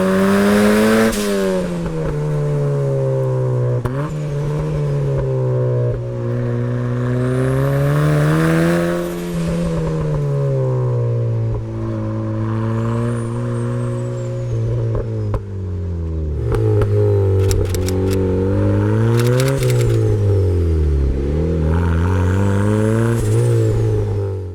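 Turbocharged Mazda MX-5 Miata's four-cylinder engine driven hard, its pitch climbing and falling again many times as it revs up and drops back. A few sharp crackles come in a cluster about two-thirds of the way through.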